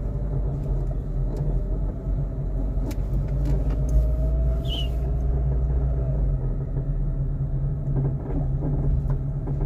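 A 2009 Honda Civic EX coupe being driven, heard from inside the car: a heavy, steady low rumble strong enough to be felt through the floor, with a few light knocks and a short squeak about halfway. This is the unexplained awful noise the owner suspects comes from the suspension.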